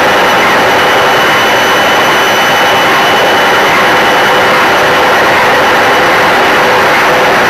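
Washing machine running with a loud, steady rushing noise and a thin, constant high whine.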